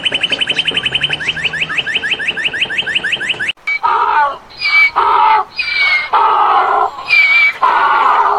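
A bird's fast, even trill of short downward-sweeping notes, about ten a second. It cuts off abruptly and is followed by four loud, harsh animal calls, each about half a second long.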